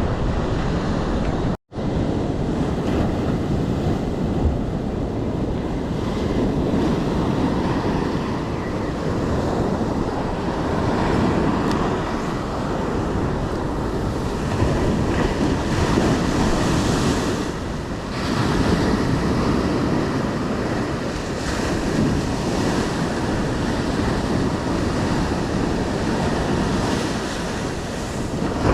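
Sea surf breaking on a beach, a dense rushing noise that swells and eases every few seconds, with wind buffeting the microphone.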